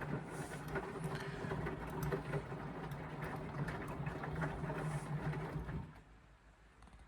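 Indesit washing machine running in its wash phase: the drum motor hums steadily under the patter and slosh of the wet laundry. The hum stops abruptly about six seconds in as the drum pauses.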